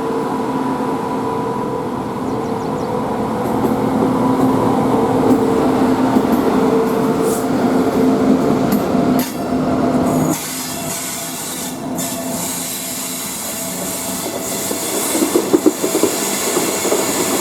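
Express passenger train rolling past on a curve: a steady rumble of wheels on rail with a held whining tone. The tone drops away about ten seconds in, and near the end there is a quick run of clicks as wheels pass over rail joints.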